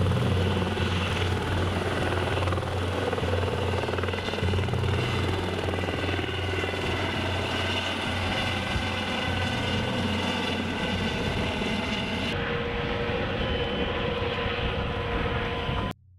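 Helicopter running steadily, its rotor pulsing low and loud; the sound cuts off abruptly near the end.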